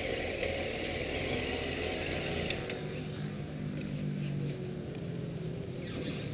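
Honda CBR954RR's inline-four engine idling at low revs, with a faint click about two and a half seconds in.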